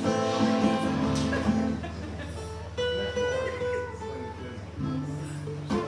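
Acoustic guitar playing, strummed and plucked chords ringing over a held bass note, softer for a couple of seconds mid-way.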